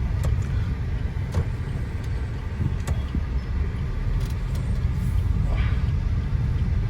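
Maruti Suzuki Ciaz sedan driving, heard from inside the cabin: a steady low road and engine rumble, with a few faint clicks.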